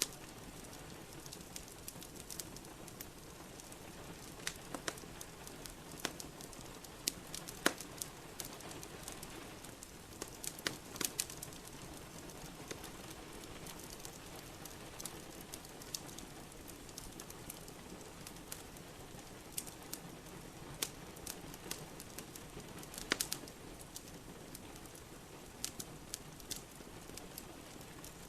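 Wood fire crackling in a fireplace, with irregular sharp pops, over a steady hiss of rain. The loudest pops come at about 8, 11 and 23 seconds in.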